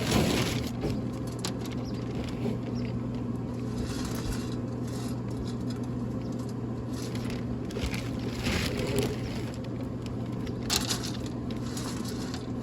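Traeger Scout portable pellet grill running with its fire lit: a steady low electric hum from its motors, with irregular faint crackling and ticking over it.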